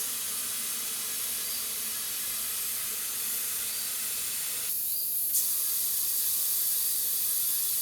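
Steady hiss of air at a 14-inch tube-type tire while it is aired up and its bead seats; the hiss thins briefly about five seconds in.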